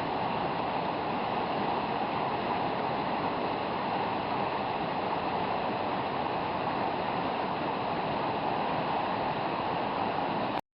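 Steady rush of flowing water, an even noise with no change in it, cutting off suddenly near the end.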